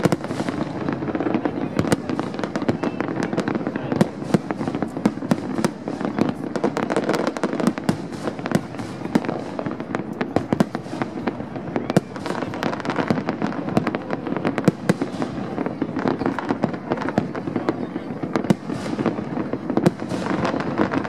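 Aerial fireworks shells bursting in quick succession: a dense, unbroken stream of sharp bangs and crackles.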